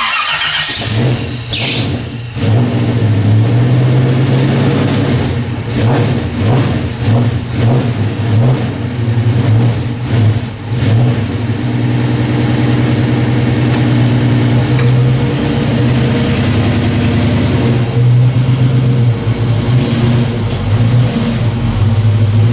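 A car engine running with a steady low pitched sound that starts about a second in, wavering in loudness with a few brief dips in the middle.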